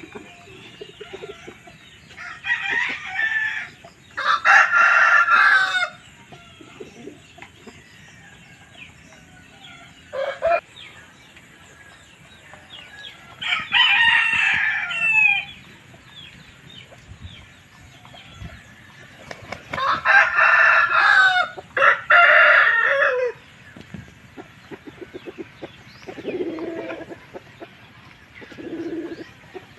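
Shamo and Asil game roosters crowing, about six loud crows of one to two seconds each, some in quick succession as if answering one another, with lower clucking calls near the end.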